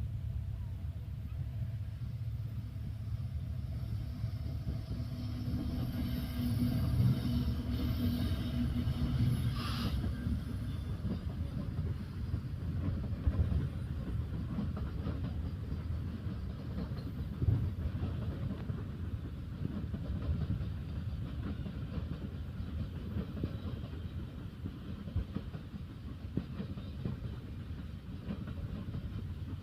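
Train rolling past: a steady low rumble of wheels on the rails with clickety-clack, and a short sharp noise about ten seconds in.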